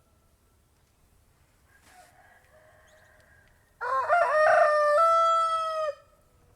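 Domestic rooster crowing once, starting about four seconds in: a few short broken rising notes, then a long held final note. A faint, quieter call comes before it.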